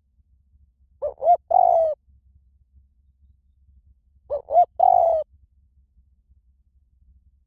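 Spotted dove cooing twice, about three seconds apart. Each phrase is two short coos followed by a longer, drawn-out coo.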